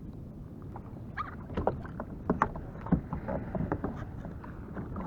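Kayak on choppy sea: water splashing and slapping against the hull, with irregular sharp splashes and knocks from about a second in over a steady low rumble of wind and water.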